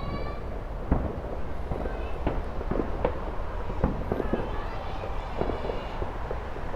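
Fireworks going off in the distance: irregular bangs and cracks, a dozen or so, some overlapping, over a steady low rumble.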